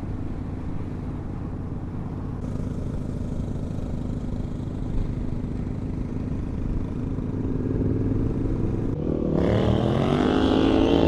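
An adventure motorcycle's engine running under way, with wind and road noise. About nine seconds in, the engine note climbs as the bike accelerates.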